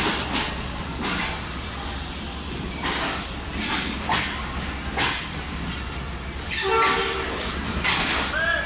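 Passenger coaches rolling past on the track: a steady low rumble with sharp wheel clicks over rail joints coming roughly every second. A short pitched sound cuts in about seven seconds in.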